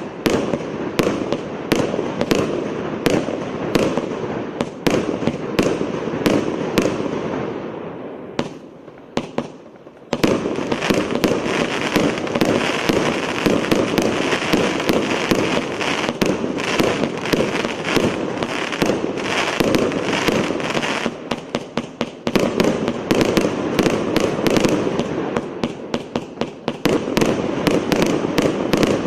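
A multi-shot firework cake firing in rapid succession, sharp launch bangs and bursts overlapping with continuous crackle. There is a brief lull about eight to ten seconds in, after which the rapid shots resume.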